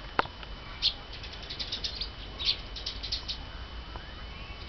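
Birds chirping in quick, high twittering bursts that come and go. A single sharp click sounds near the start.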